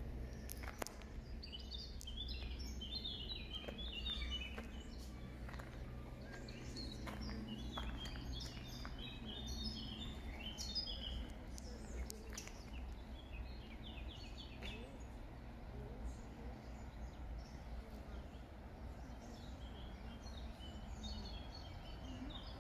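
Small birds chirping and twittering in several bouts of quick high notes, over a steady low outdoor rumble.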